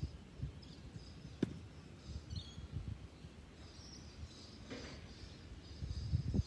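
Small birds chirping faintly over a low, uneven background rumble, with one sharp tap about a second and a half in.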